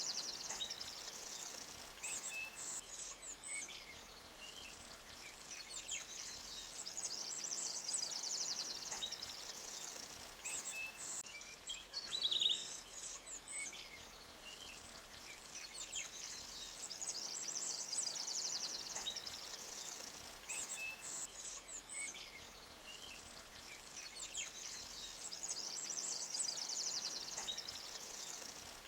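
Forest ambience: scattered short bird chirps over a high, rippling hiss that swells and fades every few seconds, with one louder chirp about twelve seconds in.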